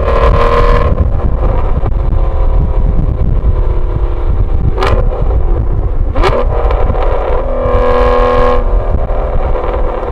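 Aston Martin V12 Vantage's V12 engine through a valved Velocity AP exhaust with the secondary cats deleted, loud, revving up and falling back. Two sharp cracks come about a second and a half apart in the middle, and the revs rise again near the end.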